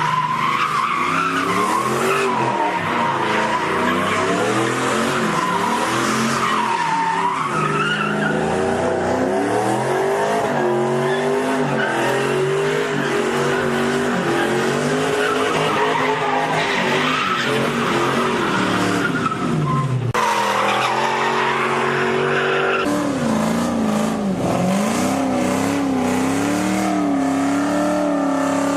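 V8 muscle car engines revving hard during burnouts, with tyres squealing and skidding. The engine pitch rises and falls throughout, and the sound changes abruptly twice about two-thirds of the way through.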